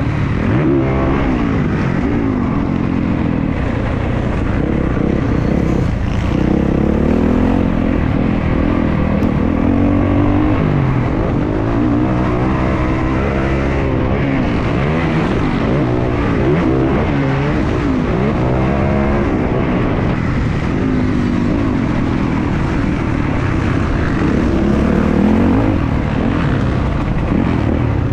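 Motocross dirt bike engine running hard, its pitch climbing and dropping again and again as it revs up, shifts and shuts off.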